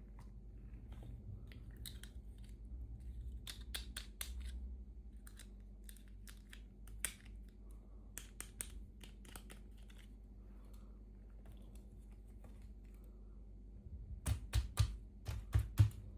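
Hands opening small toy packaging: scattered crinkles, snips and light clicks, then a run of louder clicks and knocks over the last two seconds or so.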